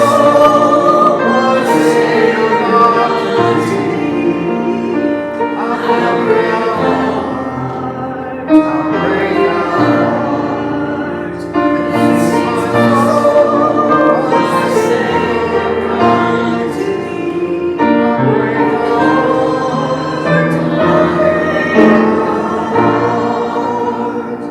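Church congregation singing a hymn together in sustained sung phrases, with piano accompaniment.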